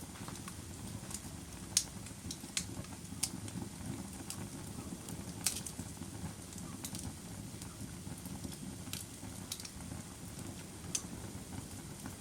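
Fire crackling: irregular sharp pops and snaps scattered over a steady low rumble of the flames.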